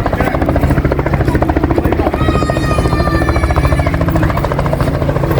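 Helicopter rotor with a steady, rapid blade chop over a low engine hum.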